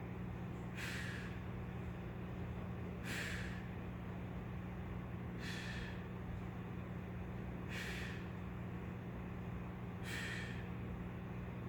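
A man's sharp, forceful breaths, five in all, about one every two and a half seconds, in time with the repetitions of a weighted pulling exercise such as pull-ups. A steady low hum sits under them.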